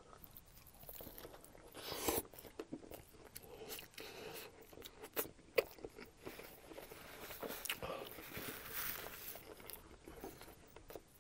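A person biting into a breaded fried-chicken and bacon sandwich and chewing, with scattered crunches from the crispy coating.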